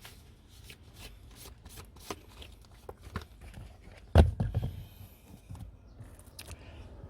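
Rustling and small clicks of hands working under a car's steering column, with one heavy thump about four seconds in and a few smaller knocks after it.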